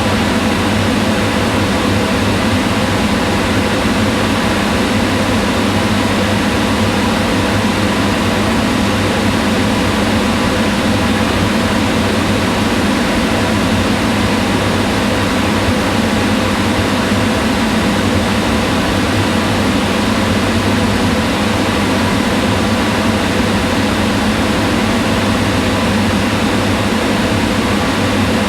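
Kitchen range hood exhaust fan running steadily: a constant rush of air with a low hum.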